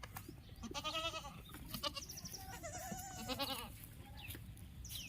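Goats bleating: a short wavering bleat about a second in, then a longer, quavering bleat from about two seconds to three and a half. Faint short bird chirps come and go.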